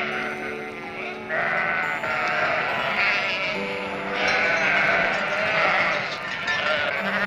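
An animal bleating, several wavering calls one after another, over steady sustained background music notes.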